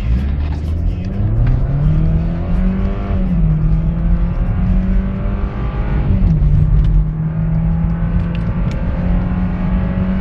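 Chevrolet Cruze's 1.6 16V four-cylinder petrol engine, heard from inside the cabin, accelerating hard from a standstill with the engine still cold. Its pitch rises, then drops as the automatic gearbox upshifts about three seconds in and again about six seconds in, and climbs again after each shift.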